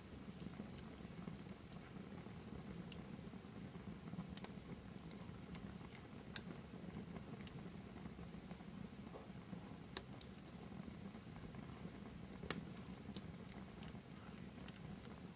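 Wood fire burning in a fireplace: a faint, steady low rush of flame with irregular crackles and pops, about a dozen, scattered throughout.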